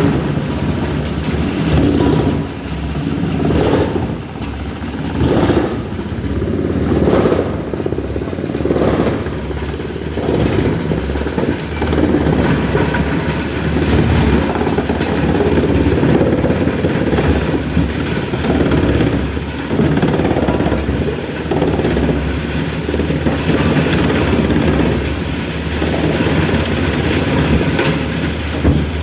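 Heavy diesel machinery running steadily, with a surge about every second and a half through the first half, then a more even drone.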